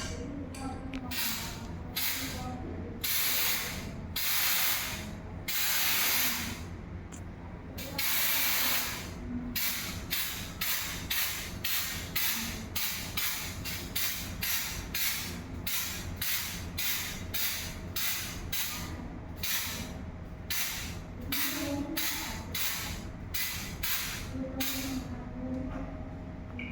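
Aerosol can of white contrast paint spraying in hissing bursts: a few longer sprays in the first nine seconds, then many short sprays about two a second. The can is laying down a white background coat on a weld for magnetic particle testing.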